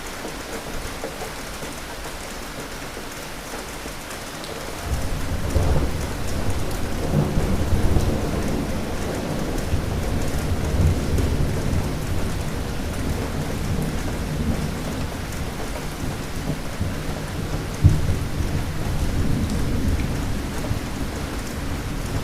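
Steady rain with a long roll of thunder: a deep rumble starts about five seconds in and keeps rolling, with one sharp crack about three-quarters of the way through.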